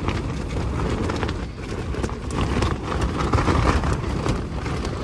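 Tent fabric flapping and buffeting in a strong gale, heard from inside the tent: a dense, continuous rush of wind with rapid, irregular slaps of the flysheet.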